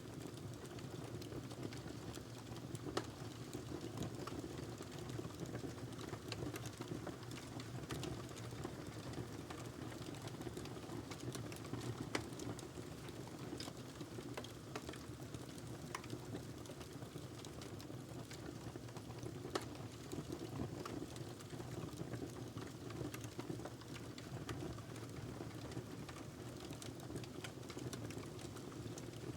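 Wood fire burning in a fireplace: a steady low rush of flames with irregular crackles and snaps, a few of them sharper than the rest.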